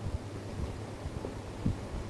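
Refrigerator compressor running with a steady low hum, and a faint knock near the end.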